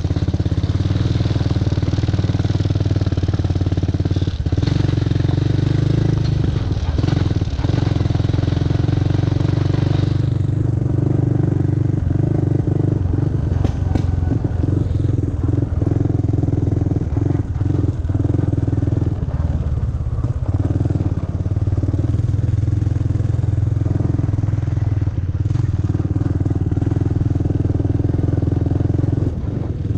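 ATV engine running steadily, with scattered knocks and rattles through the middle stretch.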